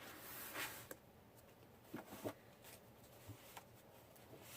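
Faint sheets of scrapbook paper rustling and sliding as they are handled, with a few light taps and flicks.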